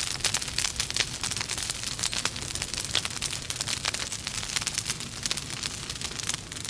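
Logs burning in a fireplace: a steady fire with dense, irregular crackling and snapping pops over a low rumble of the flames.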